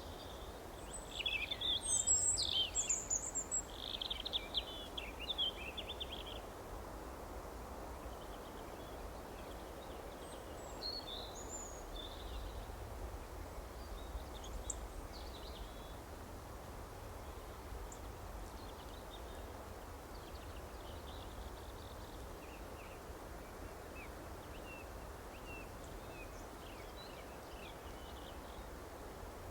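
Songbirds chirping and trilling, loudest in a burst of several quick high calls about one to six seconds in, then fainter scattered chirps over a steady background hiss.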